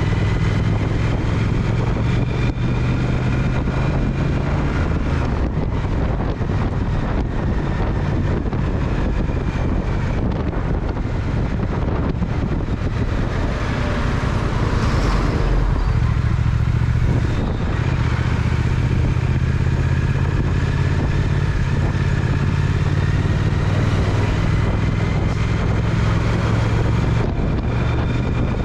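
Triumph Speed Twin's parallel-twin engine running steadily under way, with road and wind noise. About halfway through there is a short rush of noise as the engine note briefly dips, then the steady running resumes.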